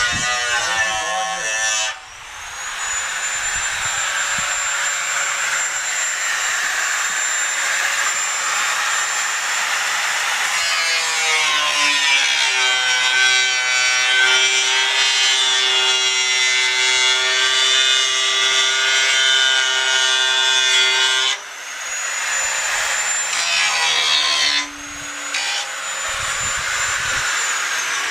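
DeWalt DW400 angle grinder cutting through the steel shell of a hot water heater tank: a loud grinding over the motor's high whine. The motor drops out and spins back up about two seconds in and twice more later, then winds down just before the end.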